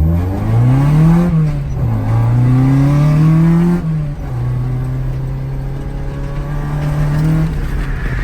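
Toyota AE86's BEAMS 3S-GE inline-four engine revving up on a drift run, twice climbing in pitch and dropping back sharply, then holding a steady note for a few seconds.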